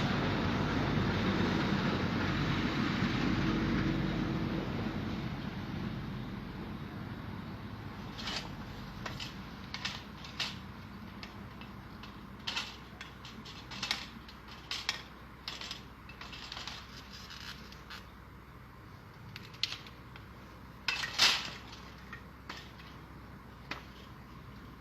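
A steady rumbling noise fades away over the first several seconds. It is followed by a scattered series of sharp clicks and snaps, the loudest a double snap about three-quarters of the way through.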